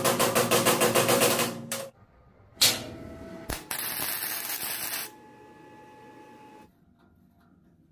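Small homemade motor-driven machine with metal grinder gears running with a fast, even clatter, stopping just under two seconds in, then running again for about two and a half seconds and dropping to a fainter steady hum.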